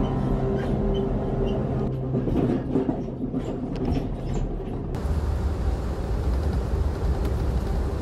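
Passenger train riding along the rails, a steady rumbling ride noise. It changes abruptly about five seconds in to a deeper rumble.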